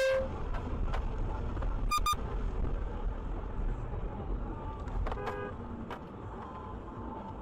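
Car horns honking in traffic over steady road noise. One honk cuts off just after the start, a short double toot comes about two seconds in, and another brief honk about five seconds in.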